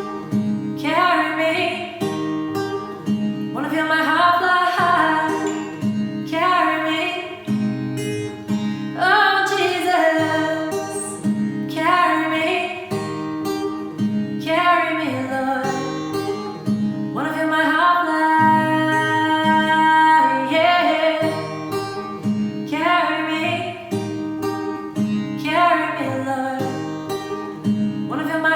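A woman singing a slow song over an acoustic guitar accompaniment, with long held notes in the vocal line.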